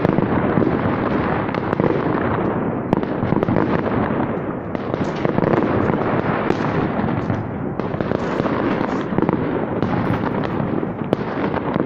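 Many fireworks and firecrackers going off at once: a dense, unbroken din of overlapping bangs and crackling, with single sharp cracks standing out now and then.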